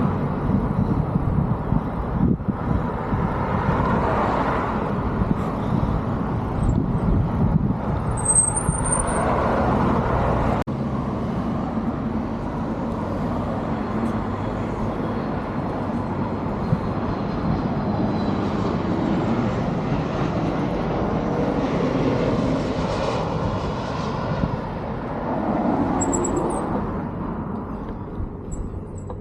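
Road traffic noise and wind rush heard from a moving bicycle, steady with occasional swells.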